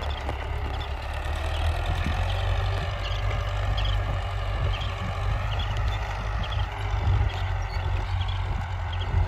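Belarus tractor's diesel engine running steadily at a low, even speed.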